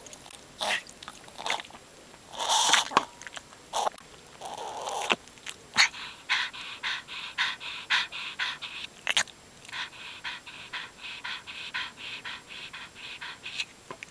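A dog breathing with a rapid, raspy, wheezy rhythm of about three breaths a second through the second half, the sign of its breathing problem. Before that come a few scattered knocks and rustles.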